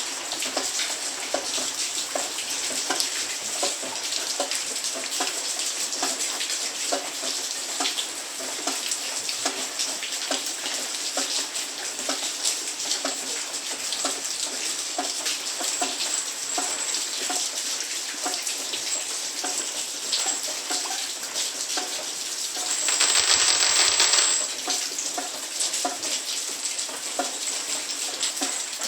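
Heavy rain falling, with many separate drops clicking on hard surfaces. A louder rush lasts about a second and a half near the end.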